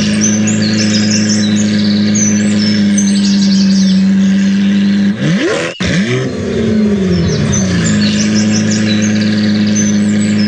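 A vehicle engine running loudly at a steady idle, revved up a little over halfway through, breaking off for an instant, then sinking back to idle over about two seconds. High chirps sound over it at the start and near the end.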